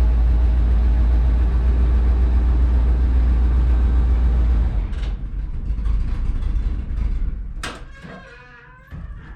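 Loaded grain truck's engine running steadily with a heavy low rumble, then shut off about halfway through. A sharp knock follows near the end, then a short creak.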